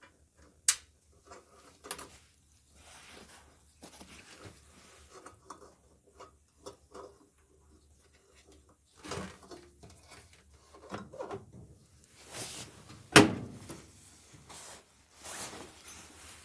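Clicks, knocks and rustling of dryer parts being handled and fitted back together, with one sharp, loud knock about two-thirds of the way through.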